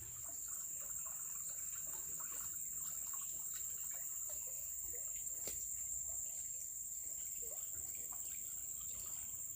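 Insects droning steadily at one high pitch, with faint trickling and small scattered chirps beneath.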